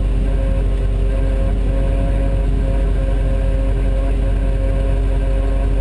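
A vehicle engine running steadily at an even pitch, over a constant low rumble.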